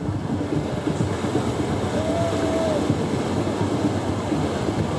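Steady rumble of ocean surf, with wind noise on the phone's microphone.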